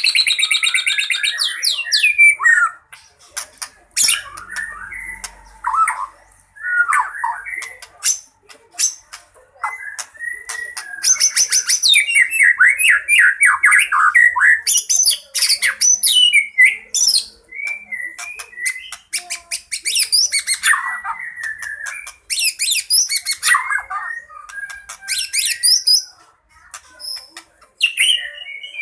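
White-rumped shama (murai batu) in aggressive fighting song, packed with mimicked calls of other birds: a rapid, varied run of whistled phrases, high rattling chatter and sharp clicks, with short pauses between bursts.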